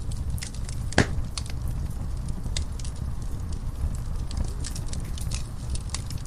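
Wood fire burning in a fireplace: a low steady rumble of flames with scattered crackles and snaps, and one loud pop about a second in.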